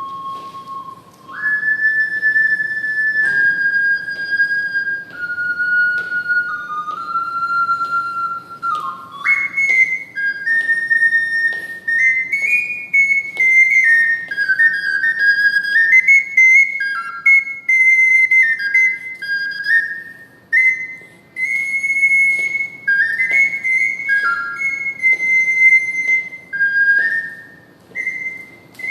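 Ocarina playing a slow melody in clear, pure whistle-like notes. The phrase sits lower for the first nine seconds or so, then moves higher.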